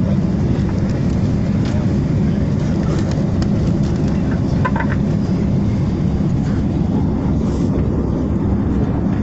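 Airliner cabin noise: a loud, steady, low rumble of the aircraft's engines and airframe, heard from inside the passenger cabin.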